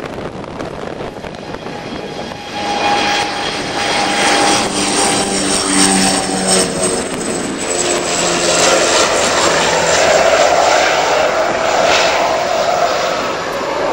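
Aircraft flying past: its engine sound swells about two and a half seconds in, with a high whine and a humming note that both slide down in pitch as it goes by, and it stays loud to the end.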